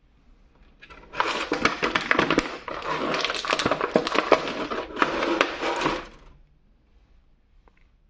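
Plastic toy packaging crinkling and crackling as it is handled and opened, in three stretches over about five seconds, full of small clicks.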